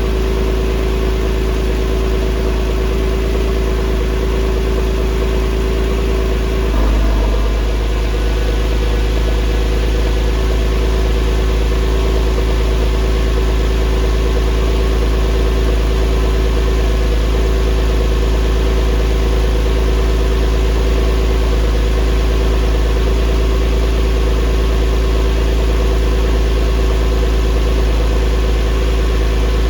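2004 Porsche 911's flat-six engine idling steadily during its cold-start warm-up. About seven seconds in there is a brief swell, after which the idle settles at a slightly lower pitch.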